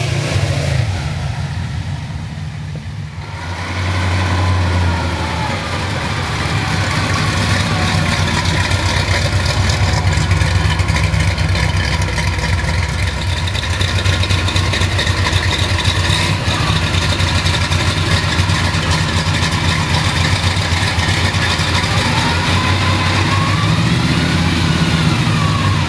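Car or truck engine running steadily and loudly, stepping up in level a little over three seconds in as it is revved, then holding there.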